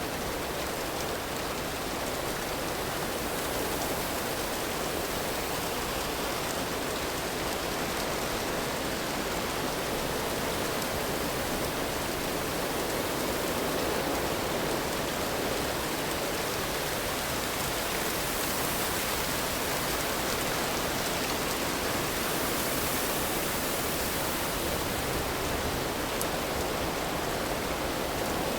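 Steady rainfall, an even hiss that grows slightly louder over the first few seconds and then holds.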